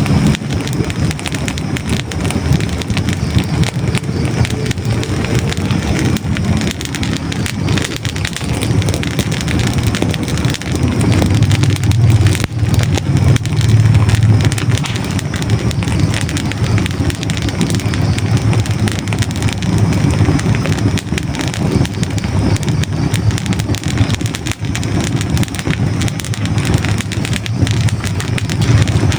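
Hardwood logs burning in a close-miked fireplace: continuous dense crackling with sharp pops over a steady low rumble of flames. The rumble swells for a few seconds in the middle.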